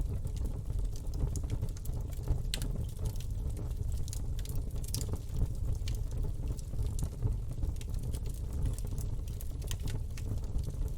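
Campfire burning, a steady low rumble of the flames with frequent sharp crackles and pops of the wood scattered irregularly throughout.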